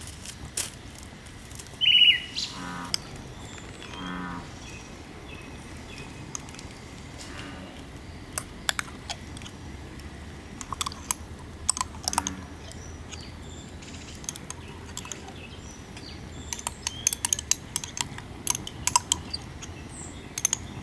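Frogs croaking in a few short pulsed calls, with a single sharp bird chirp about two seconds in and scattered clicks and knocks, thickest near the end.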